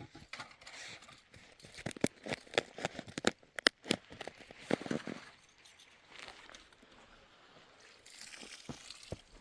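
Crinkling and crackling handling noises with a run of sharp clicks, busiest and loudest in the middle.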